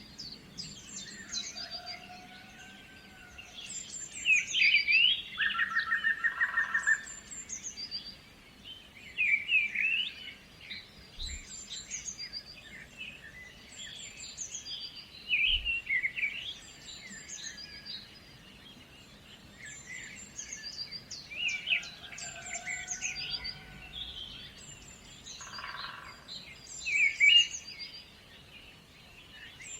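Songbirds chirping and warbling, several short high calls overlapping throughout, with a rapid buzzy trill twice, about six seconds in and again near the end.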